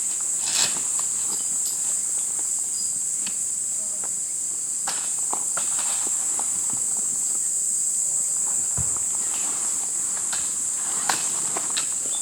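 Steady high-pitched chorus of insects such as crickets, with scattered light clicks and knocks and one dull thump near the nine-second mark.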